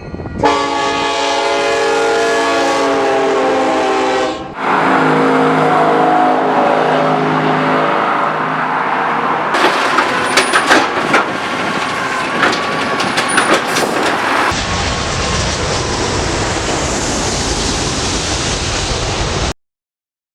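Train horns sounding a multi-note chord, cut to a second horn with a different chord, then the clatter of passing rail cars with sharp clicks and short high squeals, then the steady rumble of a passing train that cuts off suddenly near the end.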